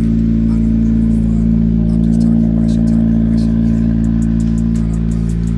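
Car engine running at steady revs, a constant low drone with no rise or fall.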